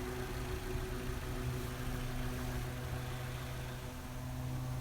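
The 2016 Toyota RAV4's 2.5-litre four-cylinder engine idling with a steady, even hum.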